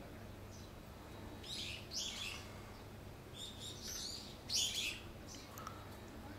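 Small birds chirping in short, high clusters, three bouts over a few seconds, the loudest a little past the middle, over a steady low hum.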